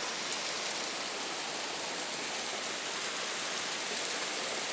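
Steady rain falling during a thunderstorm, heard from indoors through a window, with a faint tap or two of single drops. No thunder.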